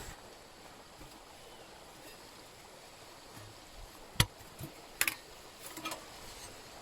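Mountain stream running as a steady rush of water. A few sharp knocks break in about four seconds in, with another couple around five and six seconds.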